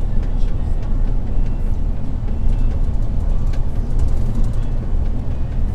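MAN truck diesel engine running while driving: a steady low rumble mixed with road noise, with a few faint rattles over it.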